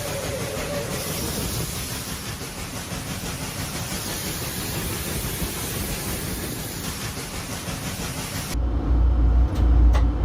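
Steady rushing noise with no clear tone, like traffic or wind noise on a camera. About eight and a half seconds in it cuts to the deep, heavy rumble of a train, with a few sharp clicks.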